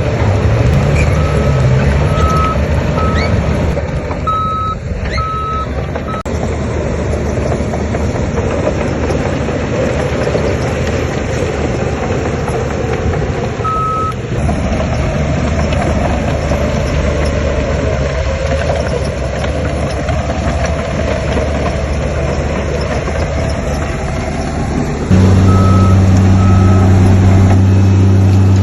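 Diesel engines of heavy earthmoving machinery (bulldozer and dump truck) running steadily, with a reversing alarm beeping in short runs: a burst of beeps in the first few seconds, a single beep midway, and two more near the end. About 25 seconds in, a louder engine drone takes over suddenly.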